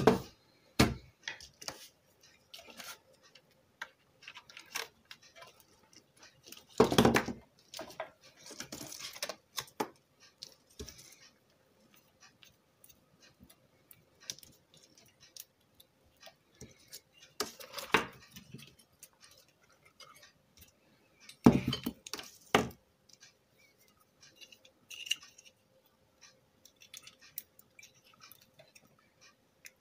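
Workbench handling noises while a car stereo is being hooked up for testing: scattered light clicks and metallic clinks, with a few louder knocks spread through, over a faint steady hum.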